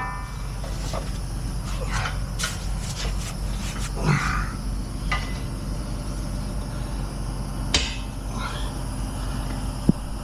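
Truck engine idling steadily under the work of hooking up a tow, with scattered metallic knocks and clanks, one sharper knock near the end.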